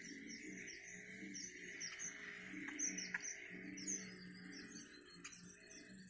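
Birds chirping: quick, high-pitched chirps repeating several times a second, over low background music.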